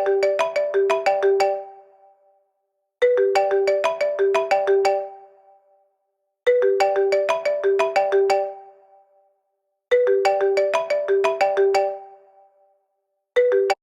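iPad timer alarm tone: a quick cascade of clear, ringing notes that repeats about every three and a half seconds. The fifth run cuts off abruptly just after it starts, near the end.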